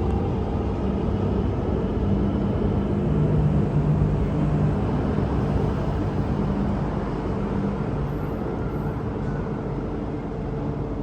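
MTR Q-train electric multiple unit running: a steady rumble with a low hum, loudest about four seconds in and easing a little toward the end.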